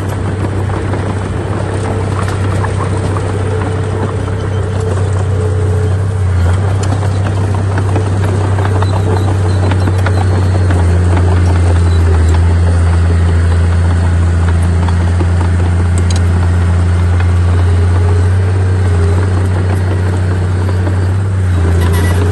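Heavy diesel earthmoving machine's engine running under load: a steady low drone that grows a little louder about halfway through.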